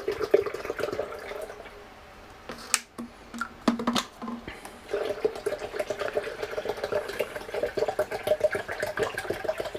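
Water glugging out of 16-ounce plastic bottles into a blender jar, in two pours, with a few light knocks in the pause between them.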